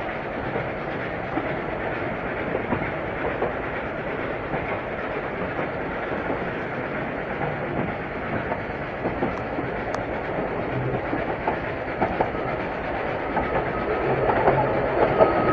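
Train carriage running along the track, heard from inside through an open window: a steady rumble with the wheels clicking irregularly over the rail joints, growing a little louder near the end, where a thin steady whine joins in.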